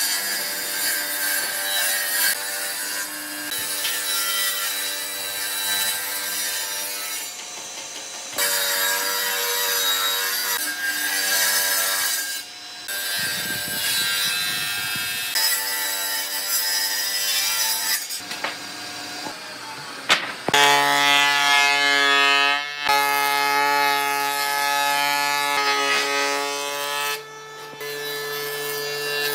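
Woodworking machinery cutting and shaping wood: motors running with a steady whine over the noise of wood being sawn and planed. The sound changes abruptly several times, as from one tool or cut to the next.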